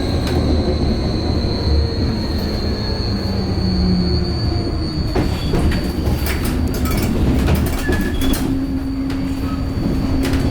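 Vossloh Tramlink tram running along the track: a steady low rolling rumble with a high whine held throughout. From about halfway in comes a dense run of sharp clicks and knocks from the wheels over the rail.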